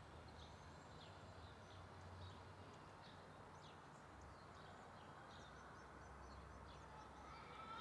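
Near silence: faint, scattered bird chirps over a low background rumble.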